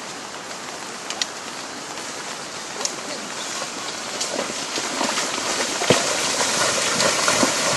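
Rushing floodwater and rain during a road washout: a steady noise that slowly grows louder, with scattered sharp knocks from stones coming down, one stronger about six seconds in.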